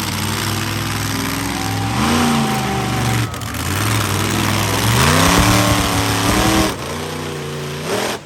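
Monster truck engine revving hard during a freestyle run: the pitch climbs about two seconds in, eases off, then climbs again about five seconds in and is held high before dropping back near the end.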